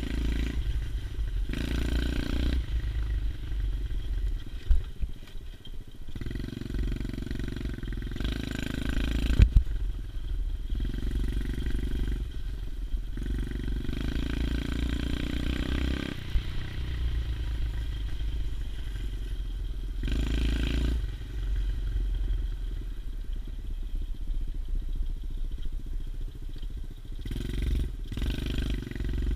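110cc pit bike's small single-cylinder four-stroke engine running while ridden, the throttle opened and rolled off in turn every few seconds, over a constant low rumble. Two sharp knocks stand out, one about five seconds in and another near the ten-second mark.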